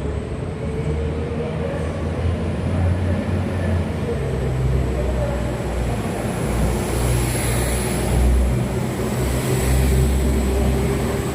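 Train running at a station platform: a steady low engine rumble that pulses slightly, with a faint high whine.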